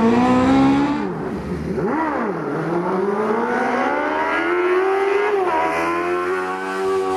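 Smart Fortwo's swapped-in Kawasaki Ninja motorcycle engine revving high on a rally stage. The pitch falls sharply about a second in as the driver lifts off, then climbs steadily through a long pull, with a brief dip for a gear change near the end.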